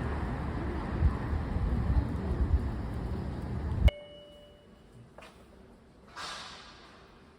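Loud, steady rushing noise that cuts off abruptly about four seconds in. A single short ding follows and rings briefly.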